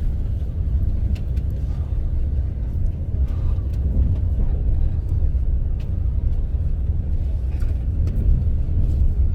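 Steady low rumble of a moving TGV Lyria high-speed train, with occasional faint clicks and knocks.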